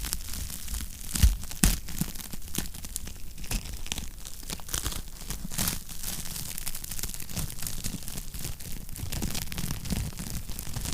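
Wood fire crackling in a fireplace: a steady run of small snaps with a low rumble beneath, and a couple of louder pops about a second in.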